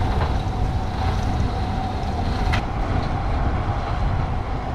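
Tractor engine running steadily, heard from inside the cab, with a steady whine over the low rumble and a couple of faint clicks.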